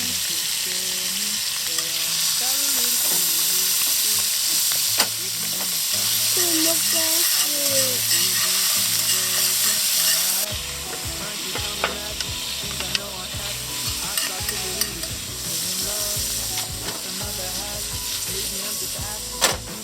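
Food sizzling and frying in a pan, with scattered clicks of a utensil stirring it. The sizzle gets quieter about halfway through.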